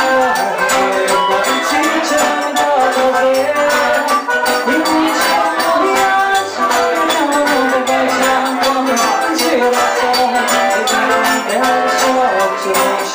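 Live forró band playing: accordion and guitar over zabumba drum and hand percussion, in a steady, driving dance rhythm.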